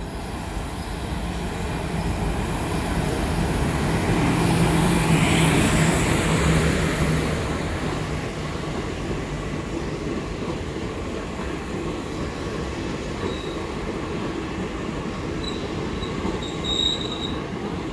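WAP4 electric locomotive drawing in on an arriving express passenger train: a hum and rumble that swells as the locomotive passes about five seconds in, then the steady rolling rumble of the coaches going by at arrival speed, with brief high squeals from the running gear near the end.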